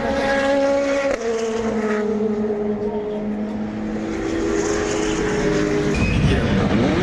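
Race car engines running on the circuit: one engine note holds a steady pitch, drops sharply about a second in as at a gear change, then climbs again. Near the end a louder car comes close, its engine noise swelling and its pitch wavering.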